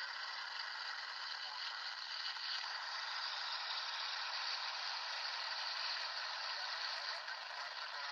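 Steady FM static hissing from a Yaesu VX-6R handheld receiver with its squelch open, tuned to the satellite downlink while no station's voice comes through.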